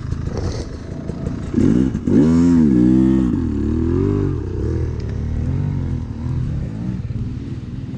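Dirt bike engine revving up and down, with a loud surge about two seconds in, then running lower with smaller blips of the throttle.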